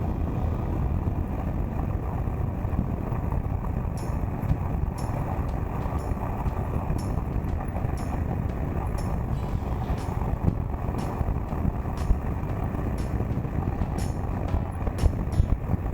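Suzuki GSX1400's inline-four engine and rushing wind and road noise, heard steadily through an action-camera microphone while riding, with scattered faint sharp clicks.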